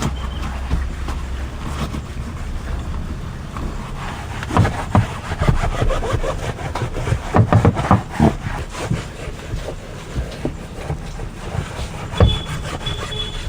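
Irregular rubbing and scrubbing with scattered knocks and clicks, typical of hand cleaning work on a car, over a steady low hum.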